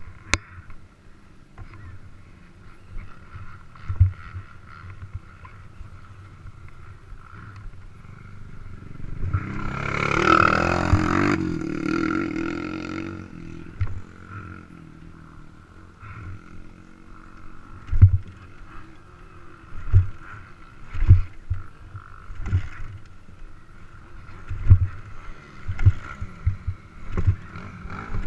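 Race ATV engine running at low speed, swelling louder about ten seconds in and then easing off again. Scattered sharp knocks are heard throughout.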